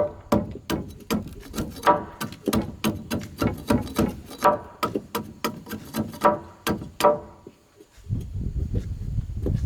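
Rapid, steady tool strikes on bamboo or wood, about two to three a second, each with a short hollow ring; they stop about seven seconds in, and a low rumbling noise starts near the end.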